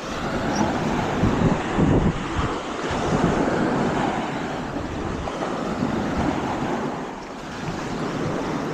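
Wind buffeting the microphone over the wash of small waves on the shore, gusting hardest about two seconds in.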